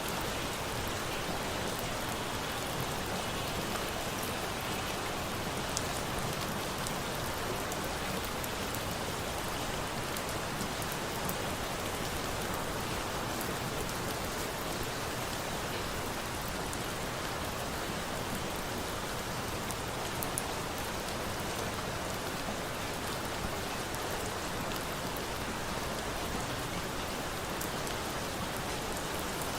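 Steady, even rain mixed with a campfire, with a few faint sharp pops, the clearest about six and twenty seconds in.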